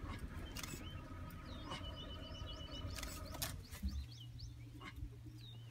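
Small birds chirping in short, high, scattered calls over a steady low rumble, with a few sharp knocks about half a second in and around three seconds in.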